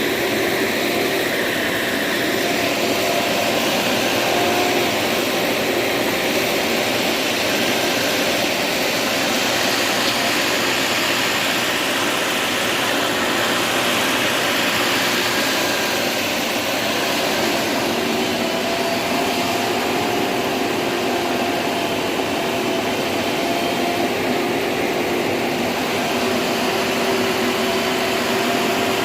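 Heavy diesel vehicle engine running hard at steady high revs, an even, loud drone with a faint hum.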